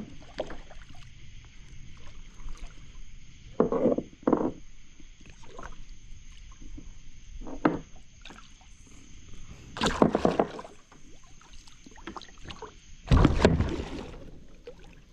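Irregular knocks, thumps and splashing at the side of a kayak as a big blue catfish thrashes alongside while being landed; the loudest bursts come about four, ten and thirteen seconds in.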